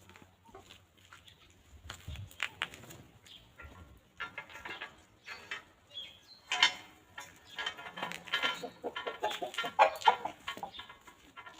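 Hens clucking, several calls overlapping. The clucking builds from about four seconds in and is busiest in the second half, with a few short sharp clicks before it.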